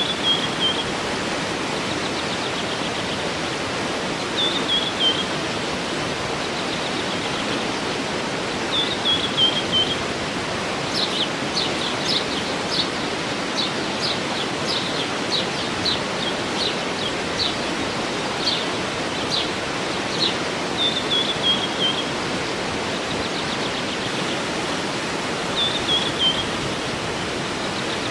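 Steady rushing of a waterfall with birds singing over it: a short falling phrase repeated every few seconds, and a run of quick, sharp high notes from about a third of the way in to about two-thirds.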